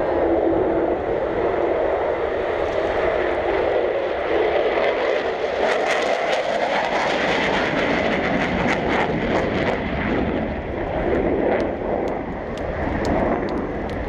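Jet aircraft flying past, a steady loud roar of jet engine noise that eases slightly late on. A run of sharp clicks sounds through the second half.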